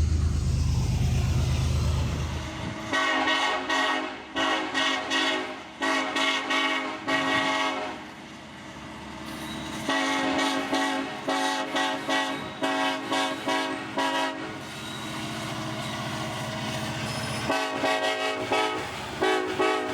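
Locomotive air horn sounded as a rapid series of short chord blasts, in three runs, over a diesel locomotive's low engine rumble at the start.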